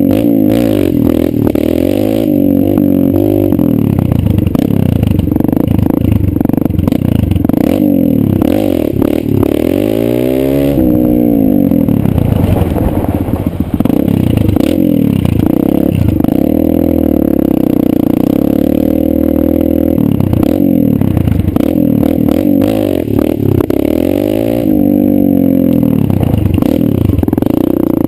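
Kawasaki KLX140 dirt bike's single-cylinder four-stroke engine being ridden, its pitch rising under throttle and dropping back over and over.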